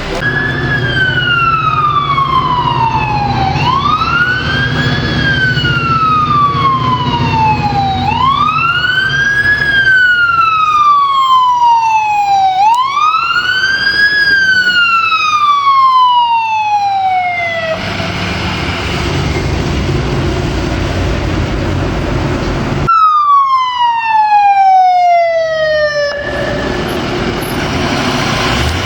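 Emergency vehicle siren wailing over an engine rumble, four times, each rising quickly and falling slowly, about every four and a half seconds. Partway through the siren stops and only road noise remains; later a siren winds down once in a long falling tone.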